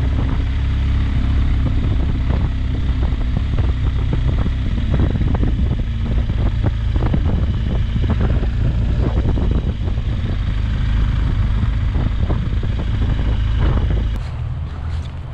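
Motorcycle under way: the engine running under a heavy, steady rumble of wind on the microphone, with scattered crackles. The sound drops off sharply near the end.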